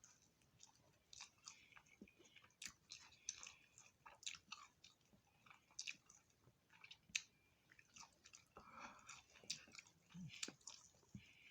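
Close-miked chewing and biting of chicken and seasoned fries: a run of irregular short wet smacks and clicks from the mouth.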